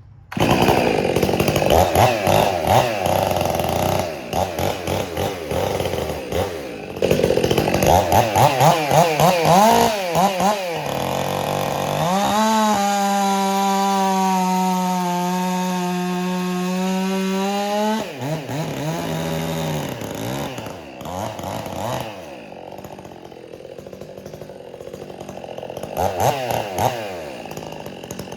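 Stihl MS 400 C two-stroke chainsaw with a homemade exhaust, revved in quick blips, then held at full throttle at a steady high pitch for about six seconds, sagging slightly in the middle as it cuts into the log. It then blips again, drops back toward idle and revs up near the end. The owner feels it has more torque with this exhaust than with the Straight Shot muffler.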